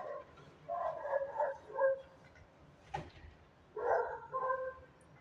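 A dog whining and yipping in three short bouts of high-pitched calls, with one sharp click about three seconds in.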